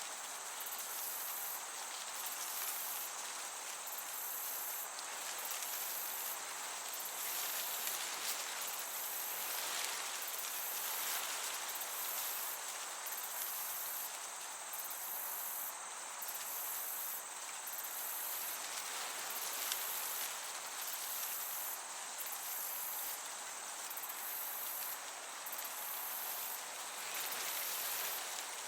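Crickets chirping, a high trill pulsing on and off about once a second, over a steady soft hiss of breeze.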